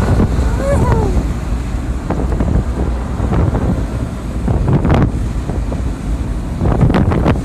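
Low vehicle rumble and road noise from a moving vehicle, with heavy wind buffeting the microphone.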